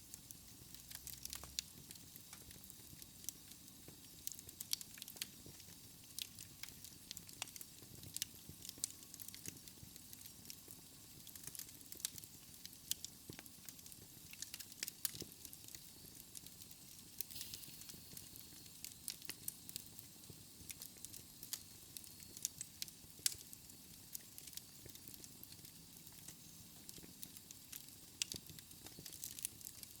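Wood fire burning in a fireplace: a soft steady hiss with frequent sharp, irregular crackles and pops.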